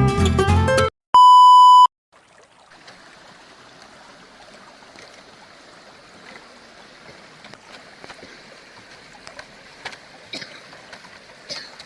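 A single loud, steady electronic beep lasting under a second, just after a strummed guitar tune stops. Then a river stream flows steadily and quietly, with a few faint clicks.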